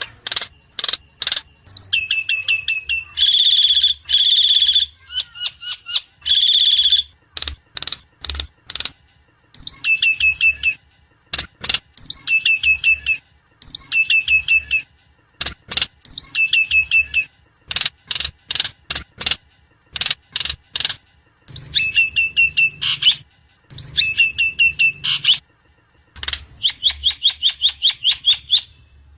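Javan myna (jalak kebo) calling: repeated bursts of rapid chattering notes and sharp clicks, with a few louder buzzy calls about 3 to 7 seconds in. A faint low hum runs underneath.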